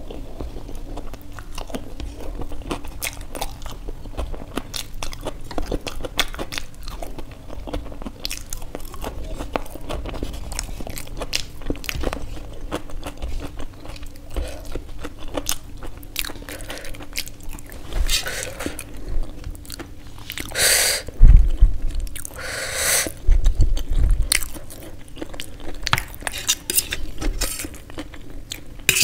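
Close-up chewing and crunching of fried samosa pastry, with small clicks throughout and a few louder noisy bursts about two-thirds of the way in.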